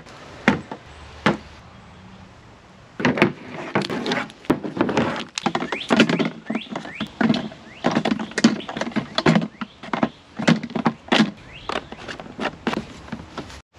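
Repeated sharp knocks, clicks and scraping of hands and a tool working a stuck electronic solenoid loose from a farm planter. The noises come only now and then at first and crowd together from about three seconds in.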